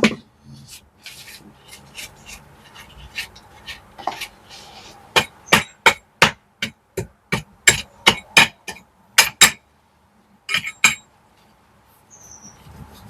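Hammer blows on brickwork: lighter scattered knocks, then from about five seconds in a quick run of sharp strikes, about three a second, and two more after a short pause.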